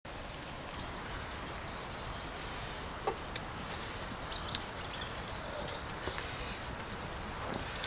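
Birds chirping a few times, short high calls over a steady outdoor background hiss.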